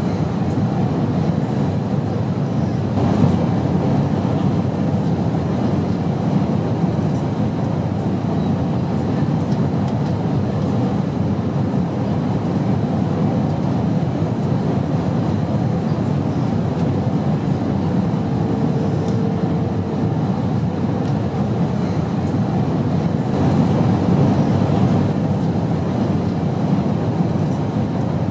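Airliner cabin noise: a steady low rumble, with a faint brief hum about two-thirds of the way through.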